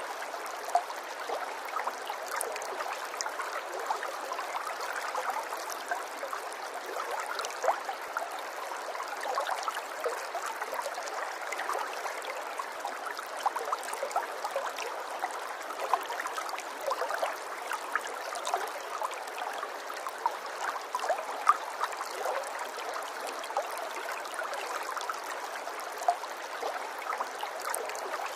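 Running water flowing steadily, with many small splashes and drips scattered throughout, light and without any deep rumble.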